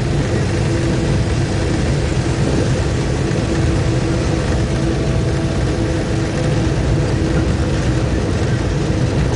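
Cab interior noise of a DC class diesel-electric locomotive hauling a heavy goods train: a steady, loud drone from the diesel engine and running gear, a deep rumble with a few held tones over it.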